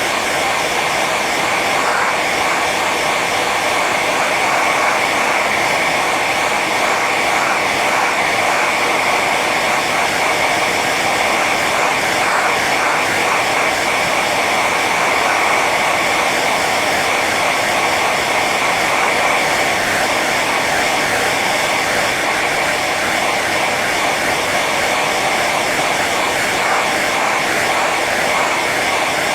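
Hair dryer running on its high setting: a steady, even blowing noise with a constant high whine from the motor and fan.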